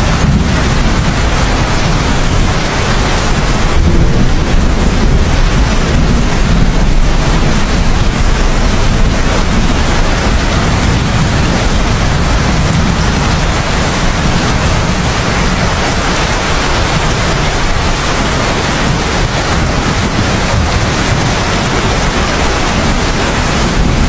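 Heavy rain pouring steadily, with a deep low rumble running under it throughout.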